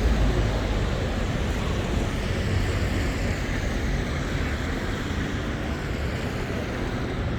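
Steady street noise in the rain: a low traffic rumble under a continuous wet hiss.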